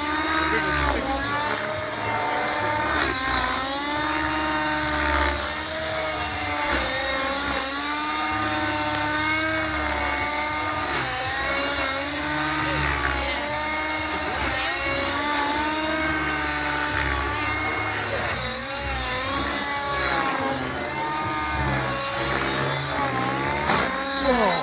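Align 600-size radio-controlled helicopter flying, its rotor and motor whine rising and falling in pitch over and over as it manoeuvres.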